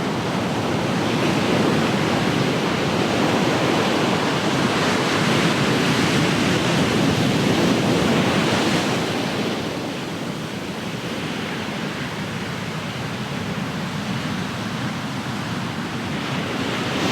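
Ocean surf washing on the shore, a steady rushing of water that swells for the first half, eases off about halfway through, and builds again near the end.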